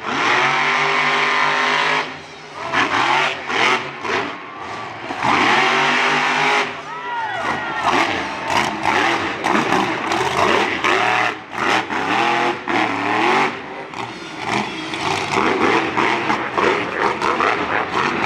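Monster truck engine revving hard during a freestyle run, the pitch repeatedly rising and falling as the throttle is blipped, with a couple of brief dips in loudness.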